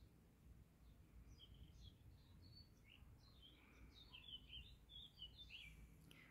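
Faint birdsong: many short, high chirps from small birds, coming more thickly in the second half.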